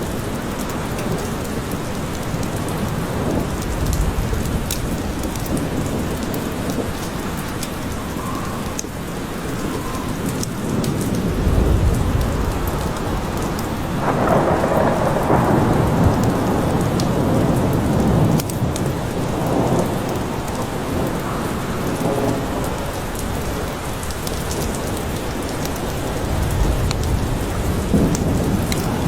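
Steady rain falling in a forest, with rolling thunder rumbling low beneath it, loudest about twelve seconds in and through the middle of the stretch.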